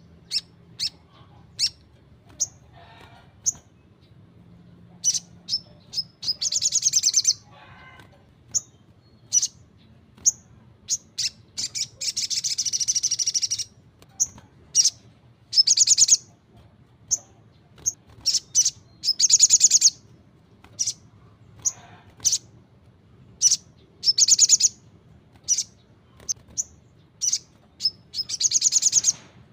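A sogon (sunbird) singing hard: many short, sharp, high chirps, broken by about six loud, fast trills of one to two seconds each. The longest trill comes about twelve seconds in.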